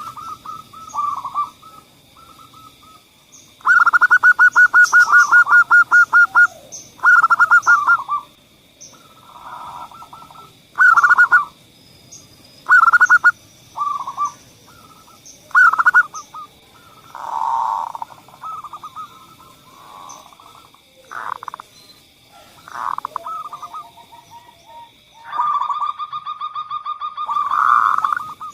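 Zebra dove (perkutut) song: repeated phrases of short cooing notes, some run together in quick staccato series, with gaps between phrases. A faint steady high whine sits behind them.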